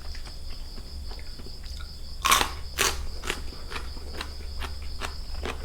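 A person biting and chewing crunchy food: a run of crisp crunches, the two loudest a little past two seconds in, about half a second apart. A steady high-pitched insect drone runs underneath.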